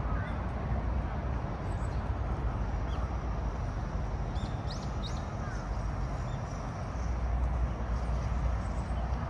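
A few short, high bird chirps about halfway through, over a steady outdoor background noise with a low rumble.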